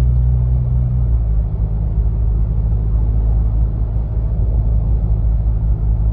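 2021 Ford Ranger's 2.3-litre EcoBoost four-cylinder with a Roush cat-back exhaust, heard inside the cab while cruising: a steady low exhaust drone whose pitch drops slightly about a second in.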